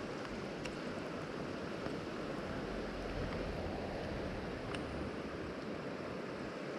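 Mountain stream water rushing steadily, with a low wind rumble on the microphone that swells briefly in the middle and a couple of faint short high ticks.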